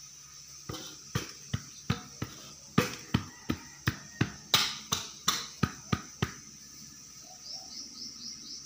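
A run of about fifteen sharp slaps or knocks at a steady pace of two to three a second, over a steady high-pitched chirring, with a few short chirps near the end.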